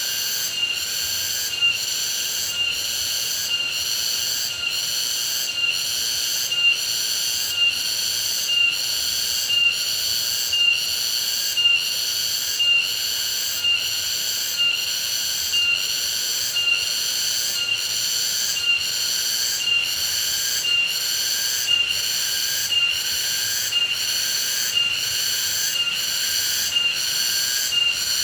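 Insect chorus: a steady high-pitched buzzing trill that pulses evenly about once a second.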